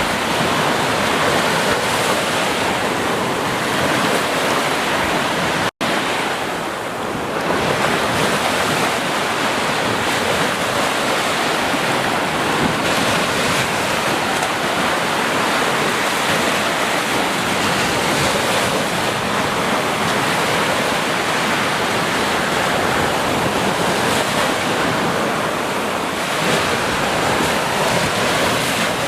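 Ocean surf washing onto a beach, a steady rushing wash that swells and eases, with a momentary gap about six seconds in.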